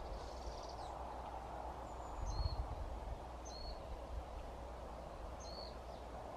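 A small bird calls three times, each a short high note that steps down in pitch, over steady outdoor background noise.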